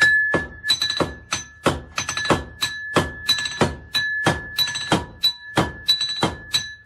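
Blacksmith's hammer striking iron on an anvil in a steady rhythm, about three blows a second, some heavier and some lighter. Each blow leaves the anvil ringing with a clear, high metallic tone that carries between strikes.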